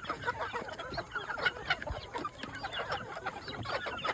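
A flock of chicks peeping: many short, high calls overlapping without a break.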